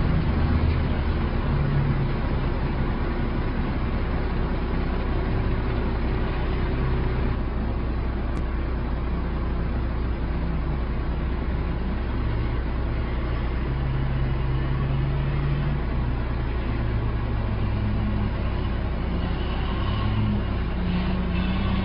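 A heavily loaded truck's engine running steadily under load, its pitch drifting up and down over a constant low rumble.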